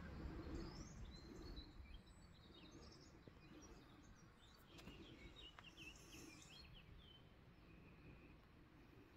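Faint birdsong: small birds chirping in short, quick phrases, once about a second in and again more strongly around five to six seconds in, over a faint low rumble.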